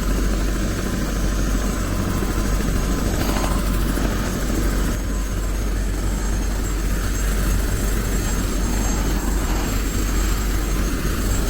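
Helicopter running steadily in flight: a constant low rotor and engine drone with an even rush of noise over it.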